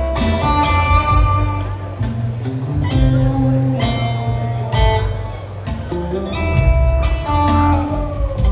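Live rock trio playing a slow instrumental passage: electric guitar notes ringing over bass and a steady drum beat.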